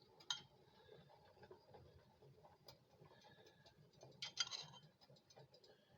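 Mostly quiet, with a few soft clicks and taps of a spoon serving chunky salsa from a jar onto the food, and a short cluster of them about four seconds in.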